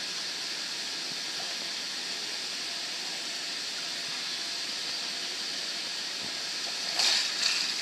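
Steady hiss around an inflatable water slide. Near the end comes a louder rushing swish as a child slides down the slide's wet vinyl surface.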